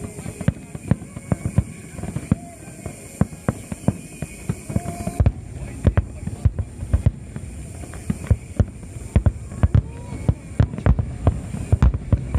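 Aerial fireworks bursting in rapid succession, with many sharp booms and cracks a second.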